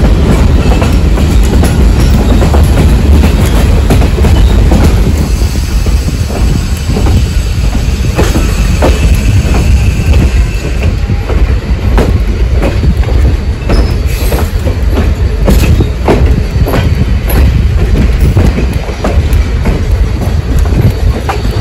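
Essex Steam Train rolling along the track: a steady low rumble with irregular clicks and knocks from the wheels over the rail joints. A faint wheel squeal comes about halfway through.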